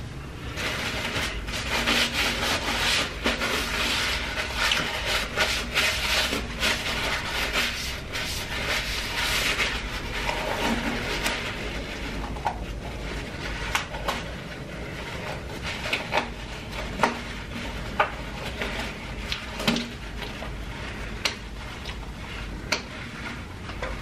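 Close-miked chewing of crispy fried food in a mukbang, dense crunching for about the first ten seconds, then slower, softer chewing with scattered clicks of the mouth.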